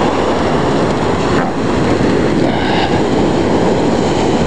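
Ocean surf breaking on the beach, a steady heavy roar mixed with wind rumbling on the microphone.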